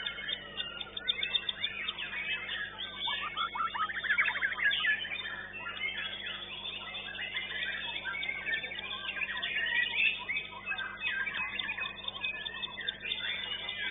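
White-rumped shama (murai batu) singing amid a dense chorus of other caged songbirds: fast overlapping chirps, whistles and trills, with a rapid rattling trill about four seconds in.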